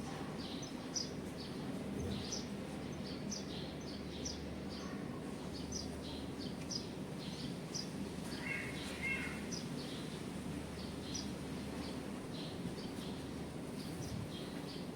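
Small birds giving short high chirps over and over at irregular intervals, with one lower call about eight seconds in, over a steady low background noise.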